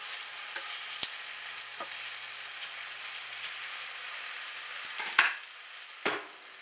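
Tomato slices sizzling in hot oil in a non-stick frying pan as they are turned with a spatula: a steady high sizzle with a few short knocks of the spatula against the pan, the loudest about five seconds in.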